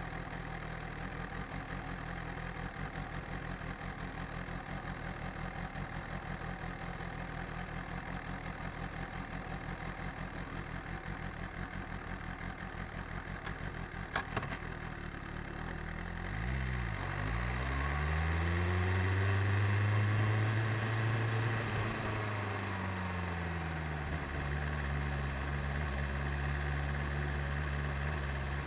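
BMW S1000RR's inline-four engine idling with a steady low pulse, and a single sharp click about halfway. Some sixteen seconds in, the engine note rises and gets louder, swells and falls back, then holds a steady, fuller note.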